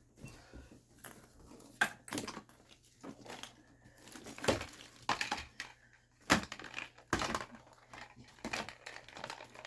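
Irregular crinkling, rustling and small knocks as packaging and small objects are handled and moved.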